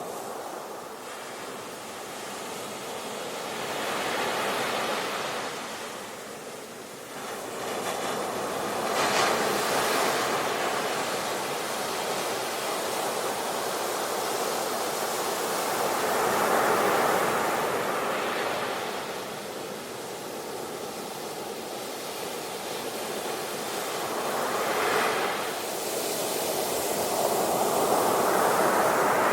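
Sea waves breaking and washing on the shore, a continuous rush that swells and ebbs every few seconds, with louder surges at about 9, 17, 25 and 28 seconds in.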